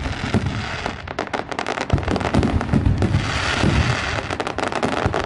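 Fireworks going off in rapid succession: dense crackling and popping mixed with repeated deep booms, easing briefly about a second in before the barrage picks up again, with a hissing spray of sparks partway through.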